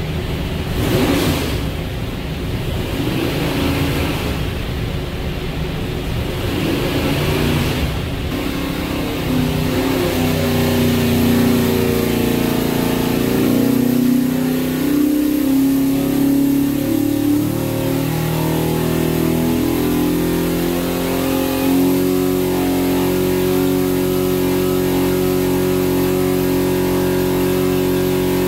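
632ci big block Chevy V8 running on an engine dyno: a few quick revs at first, then a loaded pull that climbs in pitch and settles into a steady high-rpm hold near 5,500 rpm, the sustained pull that simulates how an airboat engine runs.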